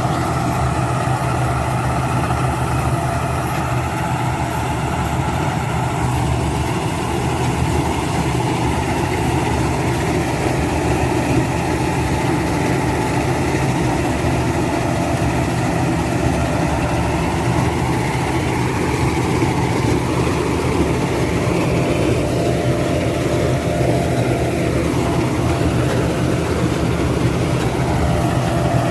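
Rice combine harvester's engine running steadily, with a low even hum and the clatter of its machinery; the pitch shifts slightly about two-thirds of the way through.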